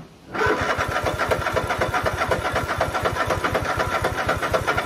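Riding lawnmower engine being cranked by its starter, turning over in a rapid, even rhythm after running out of gas, while fresh fuel is drawn up to the fuel pump.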